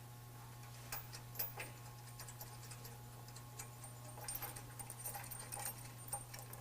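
Faint, irregular metallic clicks and taps of hand tools and bolts being worked while fitting the bumper's frame brackets, a few sharper ones about a second in and a cluster near the end, over a steady low hum.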